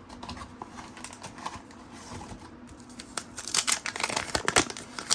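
Soft handling of trading cards, then from about three seconds in a card-pack wrapper crinkling loudly in the hands.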